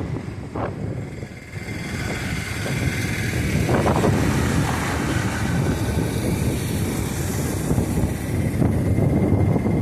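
Steady low rumble of a moving vehicle, with wind on the microphone.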